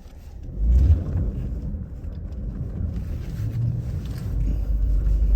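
2017 Subaru Forester driving through deep snow: a low rumble of engine and tyres pushing through the snow, swelling about a second in and again near the end.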